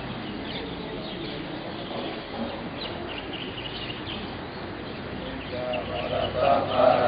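Birds chirping over a faint background of voices; near the end, Buddhist monks begin chanting together in Pali, a steady, rising group chant.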